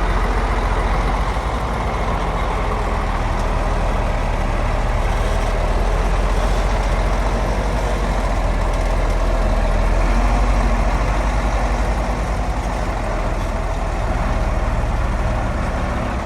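Heavy diesel engine of earthmoving machinery running steadily with a deep low rumble, growing a little louder about ten seconds in.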